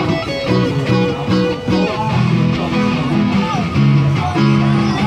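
Live busking music led by guitar, with strummed chords and a held melody line.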